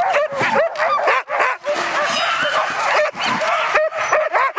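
A team of harnessed sled dogs yelping, whining and barking all at once, many short high calls overlapping: the excited clamour of sled dogs eager to run while held in place.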